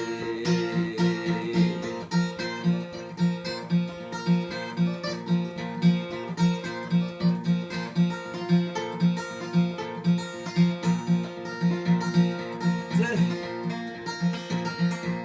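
Solo acoustic guitar tuned CGDGBE and capoed at the third fret, playing an instrumental break. A low bass note pulses at an even pace under the melody notes.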